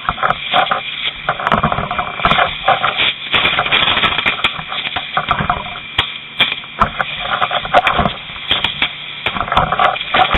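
Fire-department two-way radio traffic: muffled, garbled voice transmissions with static and crackle, heard through a narrow radio speaker.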